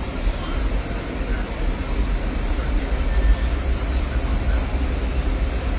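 Moving train running with a steady low rumble and a faint, steady high whine.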